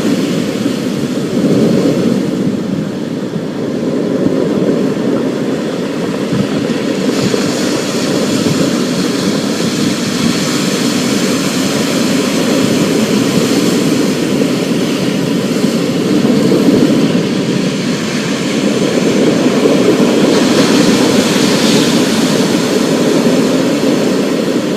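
Thunderstorm ambience: a steady, deep rumble of thunder and rain with a fainter hiss above it, swelling a little in the last few seconds.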